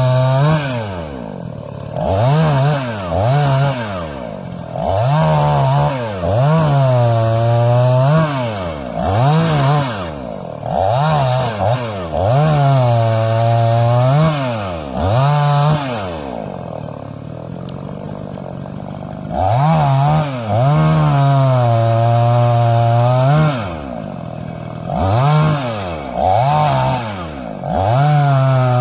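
Tengchang 45cc two-stroke chainsaw revved to full throttle again and again, held high for a few seconds at a time as it cuts through wood, then falling back. It drops to a low idle for a few seconds a little past halfway.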